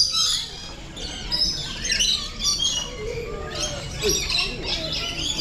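Many birds chirping and squawking at once, a dense chorus of short, high calls overlapping throughout.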